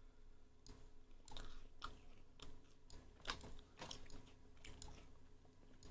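Faint, scattered small clicks and taps, about a dozen spread irregularly, over a quiet room.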